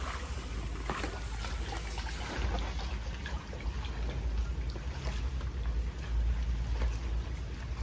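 Floodwater trickling and sloshing, over a steady low rumble and a few faint clicks.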